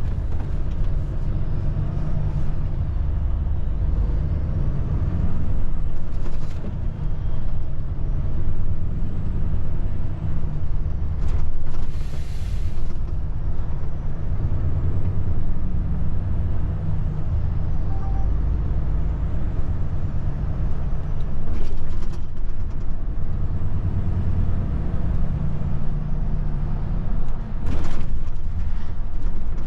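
Heavy truck engine running with a steady low rumble, with a short burst of air hiss about twelve seconds in.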